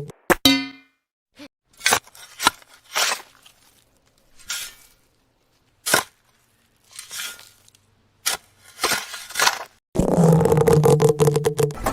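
About a dozen separate crunching and scraping hits, each short, spread out with silent gaps. In the last two seconds a rapid rattling mechanical sound with a steady low hum starts up.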